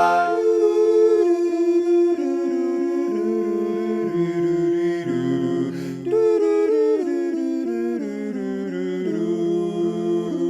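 Barbershop quartet humming a wordless a cappella passage, the four parts holding close chords and shifting from one chord to the next.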